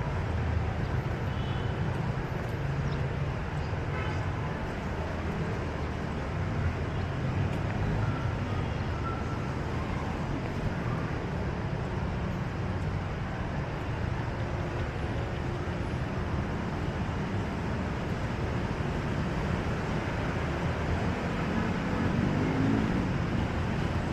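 Steady downtown street traffic: a continuous low rumble of passing vehicles.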